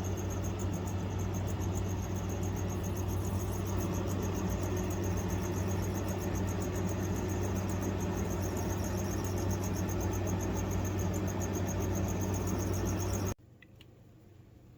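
Air conditioner running in fan mode: a steady hum with a fast, high-pitched chirping trill over it. It cuts off abruptly near the end.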